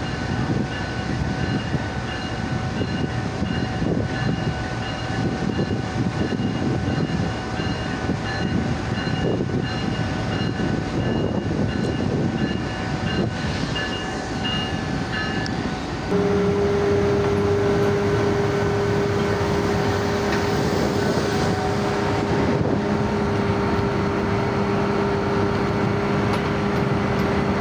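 Diesel-hauled passenger train arriving, a GE U40 diesel-electric locomotive and its coaches rolling past with a steady rumble. About sixteen seconds in the sound cuts to a steadier, slightly louder diesel locomotive drone with a clear low hum.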